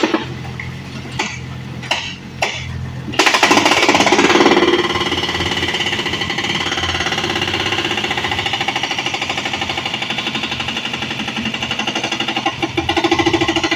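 A few sharp knocks and clinks, then from about three seconds in an excavator's hydraulic breaker hammering rapidly and steadily as it breaks up the house.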